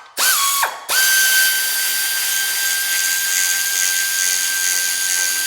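Pneumatic air ratchet running a transmission mounting bolt in to snug it up: a brief spurt, then from about a second in a steady high whine with air hiss.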